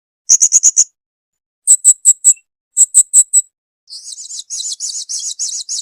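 Blue-crowned hanging parrot (serindit) calling: three short bursts of rapid, high-pitched chirps, each about half a second long, then a longer, denser chattering trill starting about four seconds in.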